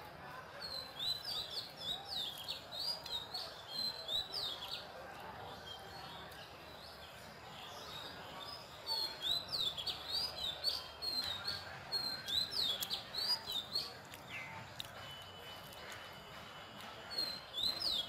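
A small bird singing in quick runs of high chirps, three runs of a few seconds each with pauses between.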